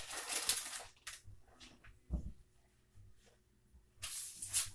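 Kitchen handling noises as cream cheese goes into a crock pot: a short scraping rustle, a soft thump about two seconds in, then another scraping rustle near the end.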